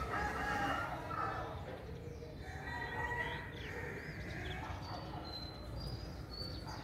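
Birds calling outdoors, with wavering calls in the first few seconds and short high chirps near the end, over a steady low rumble.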